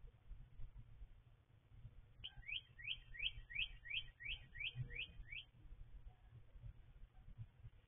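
A bird calling: a quick series of about ten short, rising chirped notes, about three a second, that stops after a few seconds.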